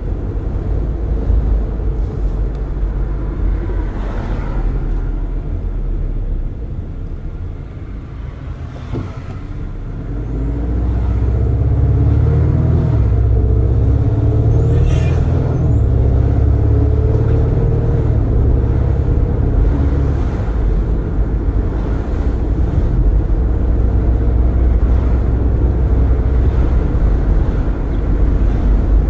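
Car driving with the windows open: steady rumble of tyres, wind and traffic. It grows louder, with engine tones, from about ten seconds in.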